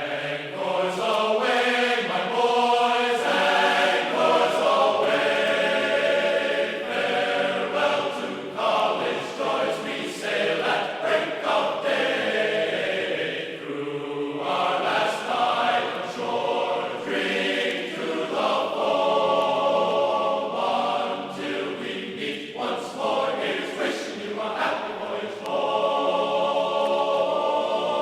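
Choral singing in music: a choir holding long chords that change every few seconds.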